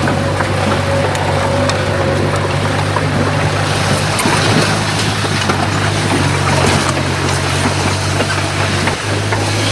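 Heavy earthmoving machine's diesel engine running steadily with a low hum. The hum shifts about four seconds in and again near the end, and faint clicks and clanks come and go over it.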